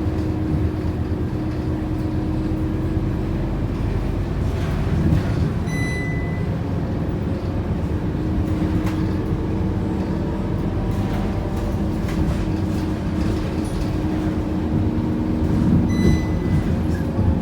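Scania K230UB Euro 5 bus heard from inside while under way: a steady engine and drivetrain drone with light rattles, its pitch shifting slightly as the bus changes speed. Two short electronic beeps sound, one about six seconds in and one near the end.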